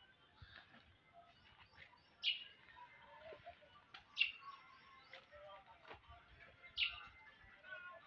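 Birds calling: a short, falling call repeated three times, roughly every two and a half seconds, over fainter scattered chirping.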